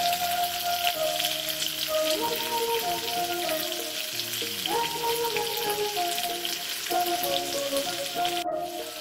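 Prawns frying in hot coconut oil in a pan: a steady sizzle with fine crackling spatters, which cuts out briefly near the end. Background instrumental music plays a slow, held melody over it.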